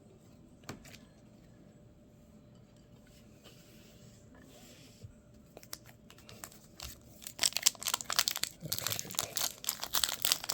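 Near silence with a few faint clicks, then from about seven seconds in a trading card pack's wrapper being torn open and crinkled in dense, rapid rustling.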